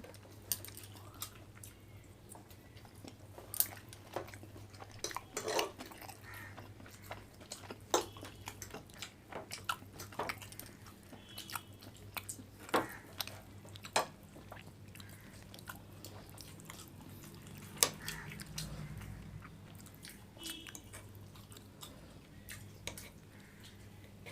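People chewing and biting food in quick mouthfuls, with scattered short smacks and clicks, over a steady low hum.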